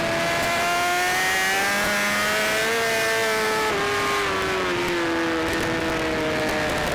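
Racing motorcycle engine, a BMW S1000RR inline-four, under way at speed over a steady rush of wind noise. The engine note climbs for about three seconds, then falls away through the rest.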